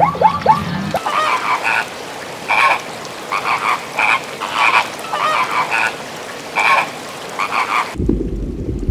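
A flock of flamingos calling in short nasal honks, one or two a second at irregular intervals. A few brief falling chirps come before them in the first second. Near the end the calls cut off and give way to a low underwater rushing noise.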